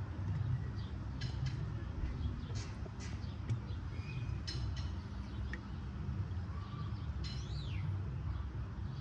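Birds chirping a dozen or so short calls, one a falling whistle late on, over a steady low rumble.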